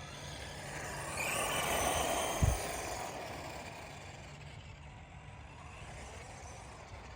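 Redcat Volcano 16 1/16-scale electric RC truck running, its motor and gears whining higher as it speeds up, then fading as it moves off. A short low thump about two and a half seconds in.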